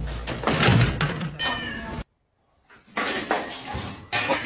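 A domestic cat meowing. The sound cuts off abruptly about halfway through, then resumes after half a second of silence.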